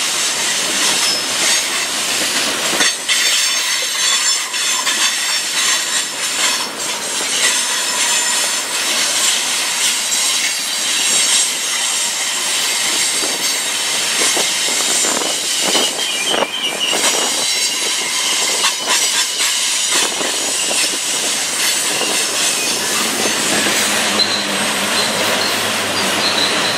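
Freight train cars rolling past on curved track, the steel wheels squealing in a continuous high-pitched whine, with the clicking of wheels over rail joints.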